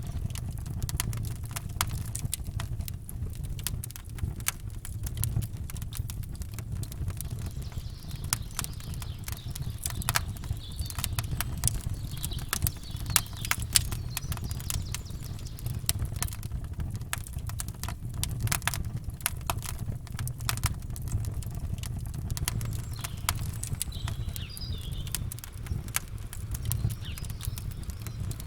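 Campfire crackling and popping in a dense, irregular stream over a steady low rumble of surf, with faint bird chirps now and then.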